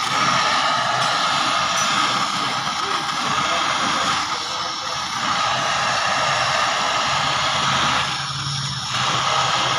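Oxy-acetylene torch flame hissing steadily during gas welding. It dips briefly about eight seconds in.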